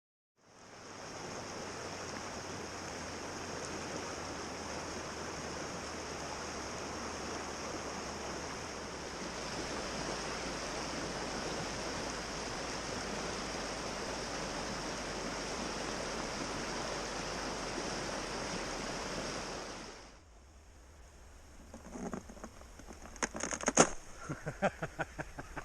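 Steady rush of flowing river water that cuts off about twenty seconds in, followed by a few sharp clicks and knocks.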